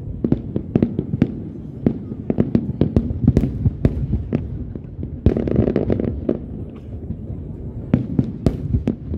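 Fireworks display: an irregular rapid series of sharp bangs and cracks, with a denser, louder stretch about five seconds in.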